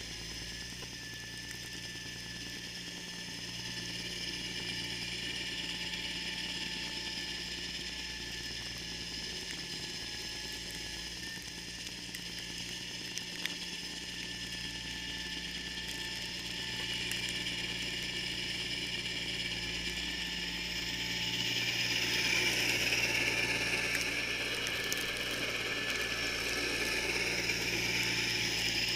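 John Deere 318 garden tractor running steadily with its Model 49 front snowblower engaged, a continuous mechanical clatter and whir. A hissing rush grows louder about two-thirds of the way through.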